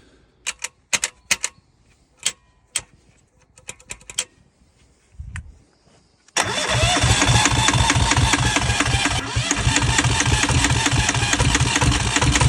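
A few sharp clicks and knocks, then about six seconds in the Yanmar 2GM marine diesel is cranked and turns over loudly with a fast pulsing chug. It is close to starting but does not catch.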